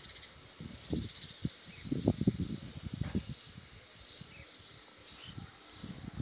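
Outdoor ambience: a bird chirping about six times, short high chirps that fall in pitch, less than a second apart, over a steady high insect drone. Low, uneven rumbles on the microphone are the loudest sound.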